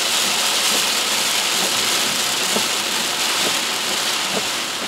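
Very heavy rain pouring onto a moving car's roof and windshield, heard from inside the car as a dense, steady hiss, with a faint tick about once a second from the wipers sweeping the glass.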